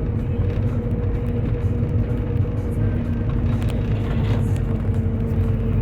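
Steady engine and road rumble of a moving vehicle, with a constant hum running through it.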